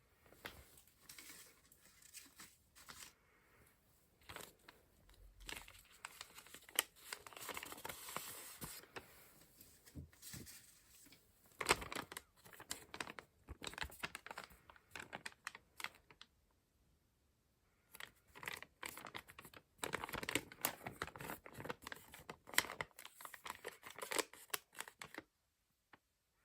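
Paper and craft materials handled close up: bursts of rustling and crinkling paper mixed with small taps and clicks, with a short pause about two-thirds of the way through.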